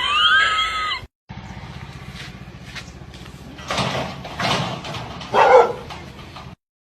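A dog vocalizing: a brief pitched whine that rises and falls, then, after a short break, three short noisy barks over a steady low hum.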